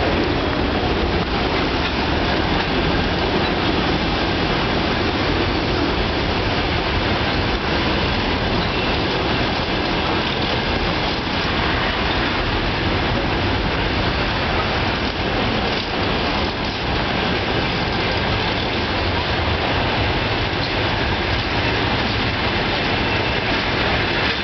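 Passenger train behind a VL82M electric locomotive rolling steadily into the station: a continuous rumble of coach wheels on the rails.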